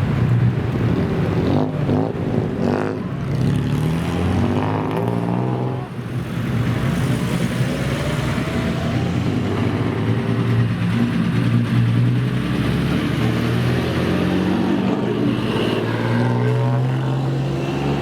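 Car engine accelerating, its pitch climbing under load, with a sudden drop about six seconds in before it climbs again.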